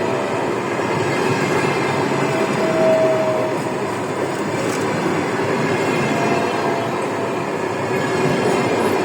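Passenger train hauled by an EP1M electric locomotive running on the rails: a steady, loud rumble of wheels and track noise. A faint high squeal comes in briefly about three seconds in and again around six seconds.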